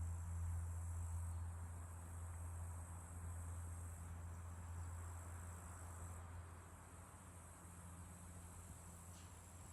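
Crickets chirring steadily, high-pitched and continuous, over a low steady hum that slowly fades.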